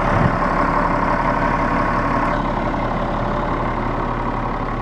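Caterpillar 7.2-litre diesel engine of a Kenworth T300 dump truck idling steadily, shortly after a cold start.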